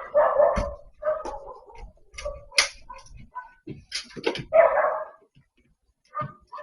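A dog barking several times in short bursts, with a few sharp clicks or knocks between the barks.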